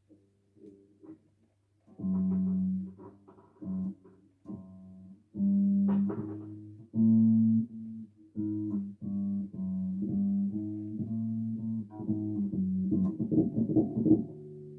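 Bass guitar played solo: a phrase of separate plucked, sustained notes starting about two seconds in, closing with a quick flurry of notes near the end.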